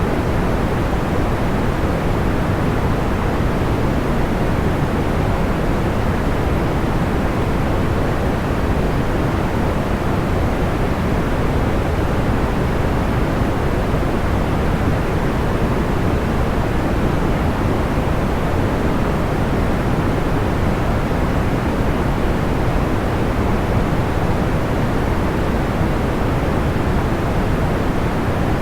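Steady, unchanging white-noise-style sleep sound, a rushing hiss heavier in the low end than the high, with no distinct crackles or pops standing out.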